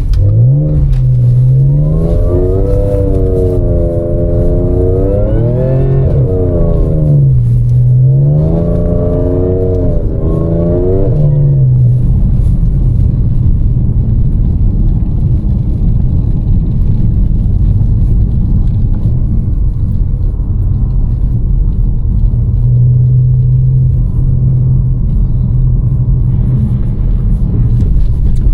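Audi S5's supercharged V6, with a Stage 1 tune and the resonator deleted, accelerating: its note rises and falls twice through the first dozen seconds, then settles into a steady low rumble at cruise.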